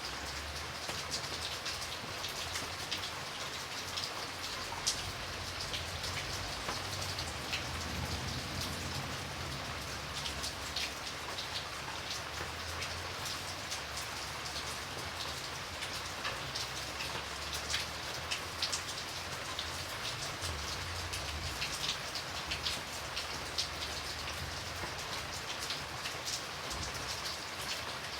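Steady rain falling on a surface, with many individual drops ticking sharply over an even hiss and a low rumble underneath.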